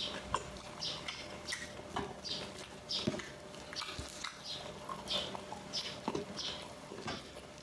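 Close-miked mouth sounds of a person eating: wet chewing and lip smacks at about two a second, with small clicks between them.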